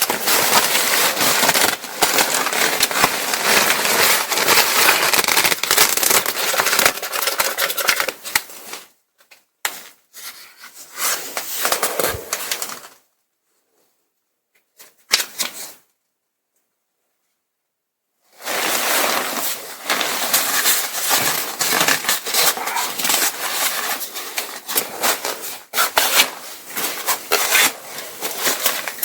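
Crackly rustling and crinkling of stiff ripstop nylon paraglider fabric and patch material being handled. It breaks off for about five seconds midway, then resumes.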